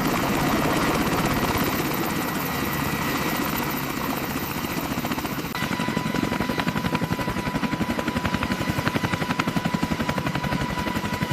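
Helicopter running with its rotor turning: a dense engine and rotor noise with a rapid, regular blade beat that grows more distinct partway through. A steady high whine joins in about five and a half seconds in.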